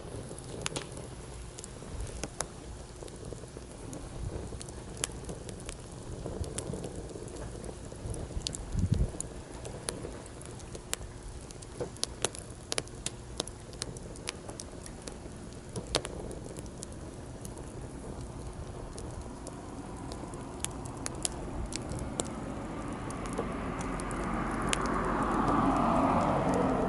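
Wood campfire in a fire stand crackling with many sharp pops, over a steady wash of sea waves. Near the end a passing vehicle swells up in loudness.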